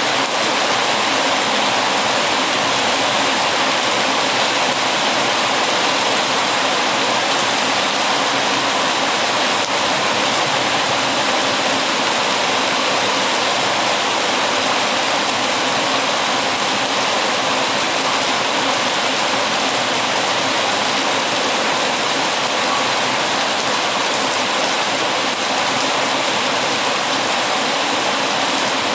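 Heavy rain falling steadily: an even, unbroken hiss at a constant level.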